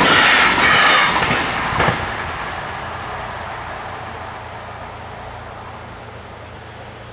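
A train passing, loud for about the first two seconds and then fading steadily as it draws away.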